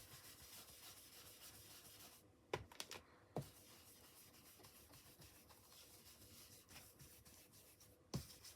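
Faint rubbing and scratching of an ink-blending brush worked across smooth cardstock, broken by a few sharp light clicks, three close together about two and a half seconds in and one near the end.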